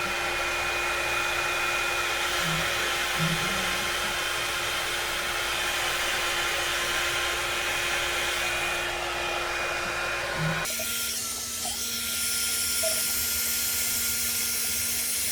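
Auto-rotating round-barrel blow dryer running, a steady rush of air with a steady hum. Its sound changes abruptly about ten seconds in, with less low rumble after.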